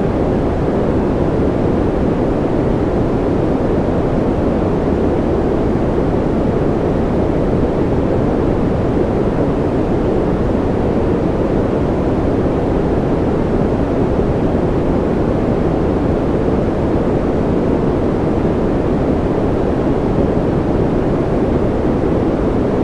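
Continuous white noise for sleep, a steady, even rush without change, weighted toward the low end so it sounds deep and muffled rather than hissy.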